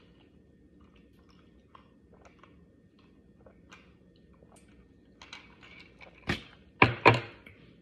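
A person chewing food close to the microphone, with soft wet mouth clicks and small crunches. The chewing grows louder after about five seconds, and three sharp thumps come near the end.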